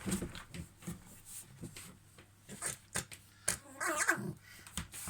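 Pet fox making squeaky, whining calls, the clearest one with a wavering pitch about four seconds in, among a few soft knocks and rustles. The owner takes this squeaking as the fox's sign that it wants to sleep.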